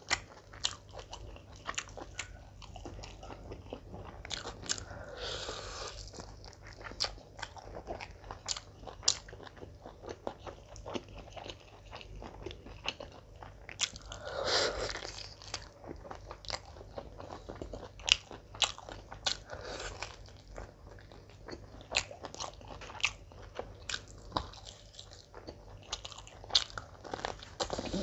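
Close-miked eating by hand: biting and chewing roast chicken leg and mutton biryani, with many short wet mouth clicks and smacks at an irregular pace. A louder, longer bite comes about fourteen seconds in.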